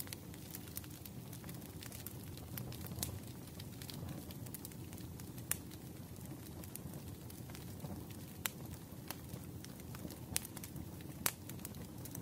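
Wood fire crackling in a fireplace: a steady low rumble of flames with scattered sharp pops and snaps, a few louder ones in the second half.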